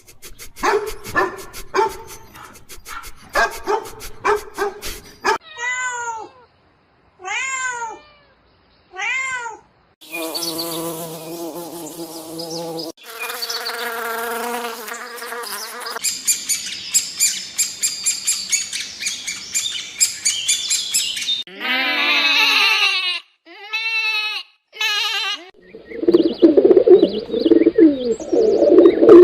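A run of different animal calls cut one after another, each lasting a few seconds: clicks and knocks, then short calls that rise and fall in pitch, longer calls, a rapid fluttering stretch, more short calls, and a loud low jumble near the end.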